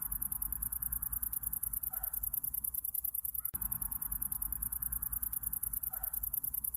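Summer-night insects chirping in a fast, even, high-pitched pulse over a softer hum of more distant insects, with a brief soft call twice.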